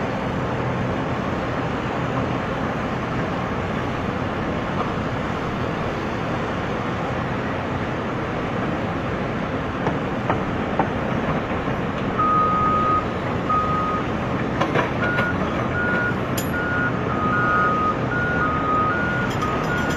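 Radio-controlled construction models running with a steady mechanical drone. From about twelve seconds in, a reversing alarm beeps over and over, joined by a second, slightly higher beep with a few light clicks mixed in.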